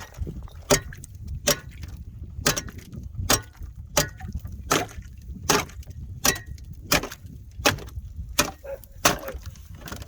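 Ice being chipped, a steady run of sharp strikes, about thirteen of them, roughly three every two seconds, that break the frozen-over water for the animals. Wind rumbles on the microphone underneath.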